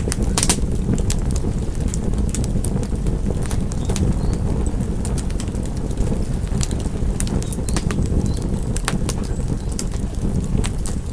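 Wood fire crackling: a steady low rumble of burning with frequent sharp pops and snaps at irregular intervals.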